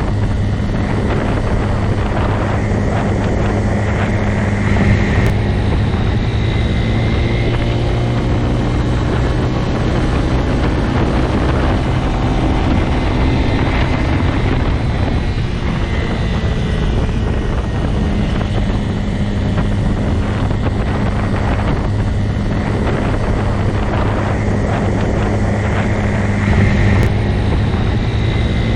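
Motorcycle engine running at a steady speed, a constant drone that swells slightly a few seconds in and again near the end.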